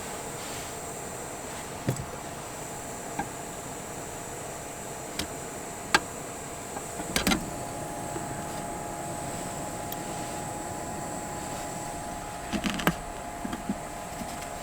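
A steady mechanical hum with a few light clicks and knocks scattered through it, the sharpest about six seconds in and near the end.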